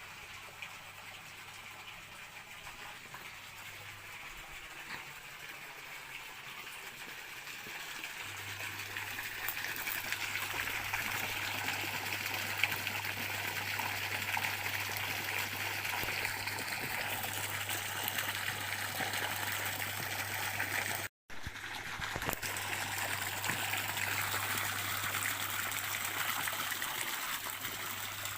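Stream water running steadily, growing louder over the first eight seconds or so. The sound cuts out completely for a split second about 21 seconds in, then carries on.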